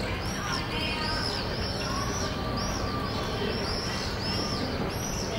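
Small birds chirping over and over in quick, high notes, above a steady low background rumble of neighbourhood ambience.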